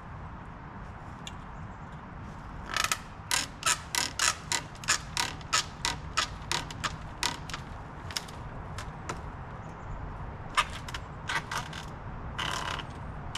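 Hand loppers cutting small fallen branches: a quick run of sharp clicks and snaps, about three a second, then a few scattered snips and a short rasp near the end.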